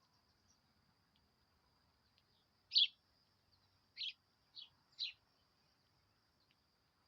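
Four short, harsh bird calls: the first and loudest about three seconds in, then three more in quick succession a second later. A faint, steady, high-pitched hum runs underneath.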